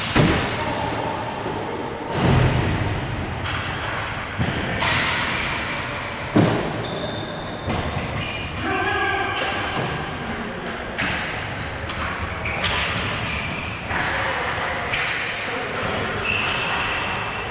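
Game play echoing in a large hall: repeated knocks and thuds from impacts, the loudest just at the start, about two seconds in and about six seconds in, with many short high squeaks between them.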